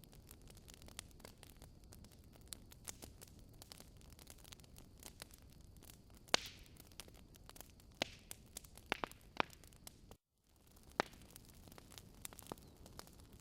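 Wood fire burning in a fireplace, crackling and popping irregularly over a low hiss, with a few louder pops past the middle. The sound cuts out completely for a split second about ten seconds in.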